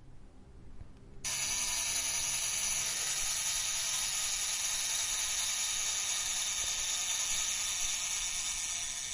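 A camera's steady, high-pitched whir with a hiss, starting suddenly about a second in and easing slightly near the end.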